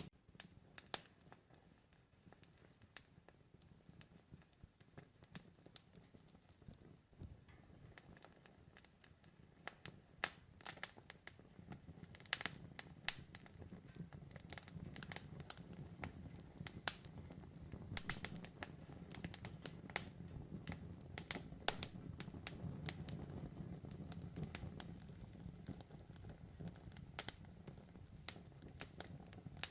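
Campfire crackling: irregular sharp pops and snaps of burning wood, thickest through the middle, over a low steady rumble of the flames.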